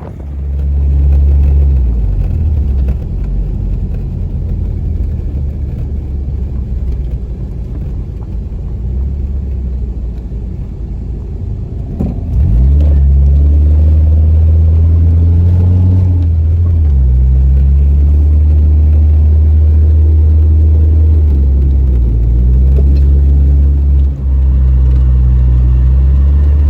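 A car running with a loud, low, steady drone; about halfway through it gets louder and the engine note rises and falls a few times.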